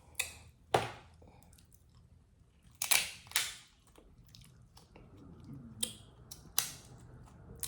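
Handling noise from the seafood-boil leftovers: about half a dozen sharp clicks and crackles, with a longer crinkling crackle about three seconds in.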